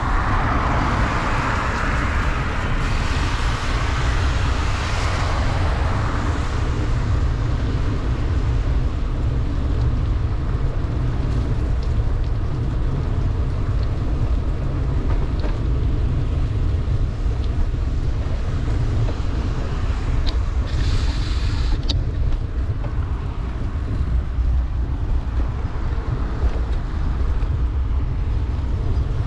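Wind rumbling on the microphone of a bicycle riding fast downhill in heavy rain, over a steady hiss of tyres and spray on the wet road. A louder hiss swells in the first few seconds and fades.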